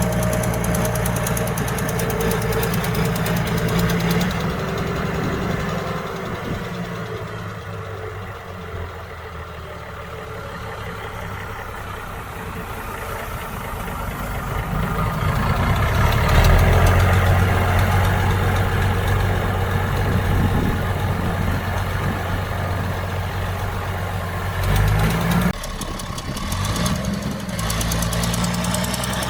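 Diesel engine of heavy earthmoving machinery running steadily. It grows louder about halfway through, and its pitch drops and climbs back briefly near the end.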